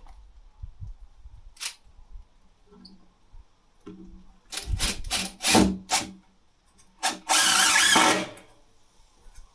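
Power drill worked in wood: a few short bursts on the trigger, then one longer run of just over a second. Light knocks and clicks of handling come before it.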